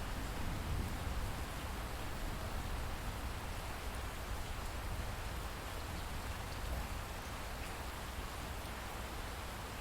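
Steady light rainfall, an even hiss of drops with a low rumble underneath.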